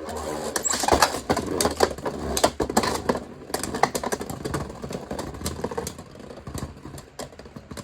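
Two Beyblade X spinning tops, a 3D-printed Agèma Ares and a Night Shield on a Low Flat driver, spinning and clashing in a plastic stadium: rapid sharp clicks and knocks, busiest in the first half and thinning out toward the end.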